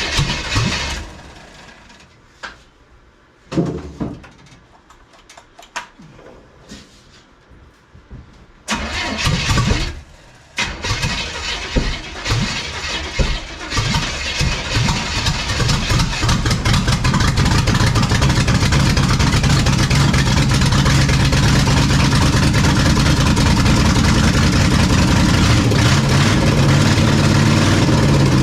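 Ex-NASCAR small-block V8 in a 1972 Mazda B1600 dying out about a second in, then restarted with scattered firing bursts and sputters until it catches around the middle and runs steadily. The sputtering comes from an inconsistent fuel supply, which the owner puts down to a carburetor needing a clean and a leaking fuel filter.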